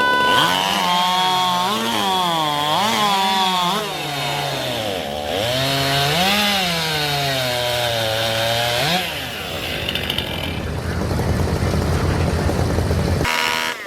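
Two-stroke racing chainsaw running at high revs through a timed cut, its pitch repeatedly dipping and climbing back as the chain bites into the log. For the last few seconds it gives a rougher, lower running sound that stops abruptly near the end.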